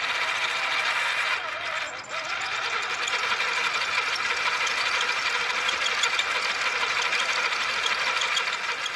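Small electric motor running steadily, driving a homemade PVC-pipe gearbox model with a continuous whirring and gear chatter. There is a brief dip about two seconds in.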